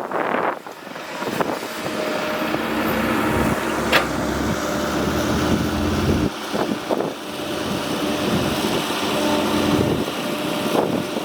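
Excavator engine running steadily, with one sharp knock about four seconds in.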